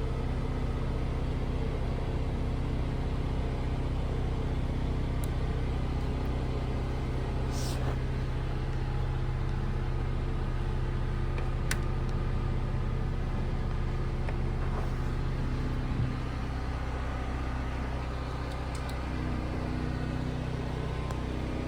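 An engine idling steadily, an even low hum, with a faint click or two.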